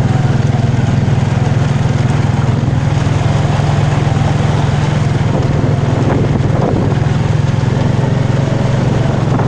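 A small vehicle's engine running steadily at a constant speed, a continuous low drone with no change in pitch as it is driven along.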